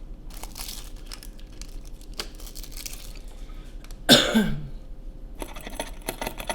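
Light clicks, taps and rustles of small parts being handled at a repair bench, broken about four seconds in by a short, loud, voiced exhale that falls in pitch, an exasperated sigh, followed by a quick run of small clicks.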